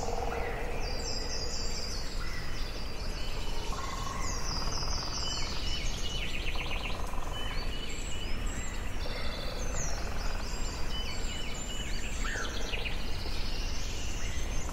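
Forest ambience: several songbirds singing at once, with trills and quick runs of high, repeated notes overlapping, over a steady background rush.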